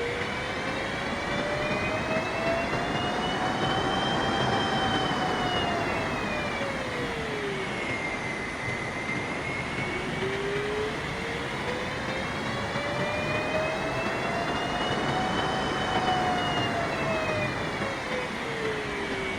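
Steady airliner cabin noise from an Airbus A380 in descent: an even rush of air and engine noise. Over it, a whining tone slowly rises and then falls in pitch, twice.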